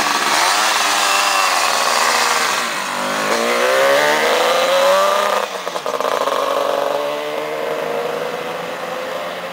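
Yamaha RD 250/350's two-stroke twin engine revving, its pitch rising and falling over the first few seconds. About five and a half seconds in the revs drop sharply, then climb slowly and steadily, as when the motorcycle pulls away.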